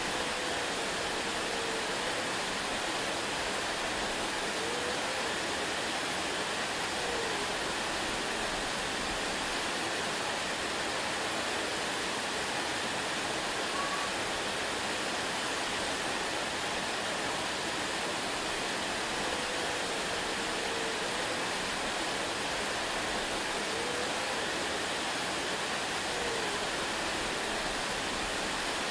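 Waterfall, water falling in a steady, even rush. A few faint short gliding tones rise and fall in the background several times.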